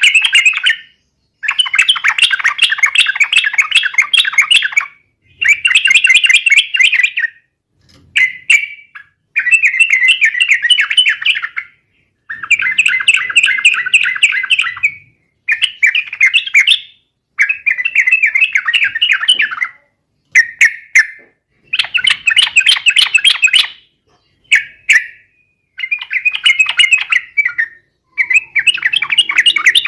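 Yellow-vented bulbul (trucukan) singing loudly in rapid, chattering phrases, each about one to three seconds long, repeated about a dozen times with short pauses between.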